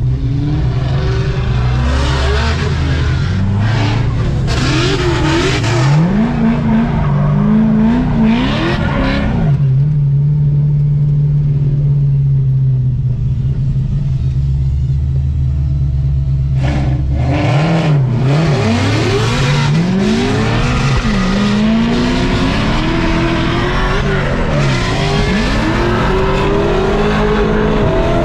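Supercharged LS7 V8 of a C6 Corvette Z06 on a tandem drift run: the revs climb and drop again and again, hold steady for several seconds about ten seconds in, then start rising and falling once more, with tyre squeal through most of it.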